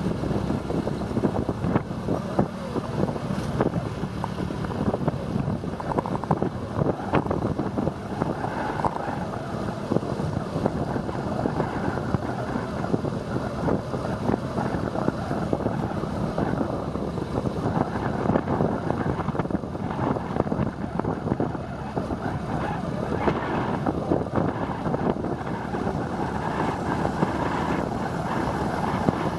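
Wind buffeting the microphone on a moving motorbike, over a steady rumble of engine and road noise.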